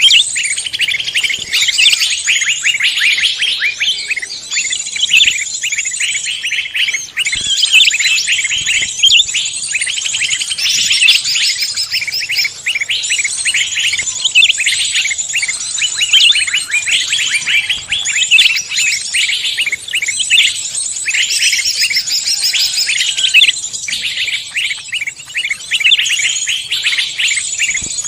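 A dense chorus of several songbirds singing at once, rapid chirps and trills overlapping without a break.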